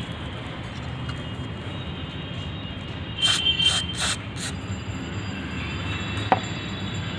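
Four short hissing bursts of an aerosol spray can a little past the middle: rust cleaner being sprayed onto diesel injector connectors, over a steady low background hum. A single sharp click comes near the end.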